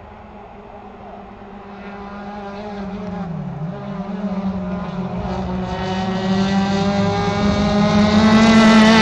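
Racing car engine running at high revs, growing steadily louder as it approaches, with a brief drop in pitch about three and a half seconds in.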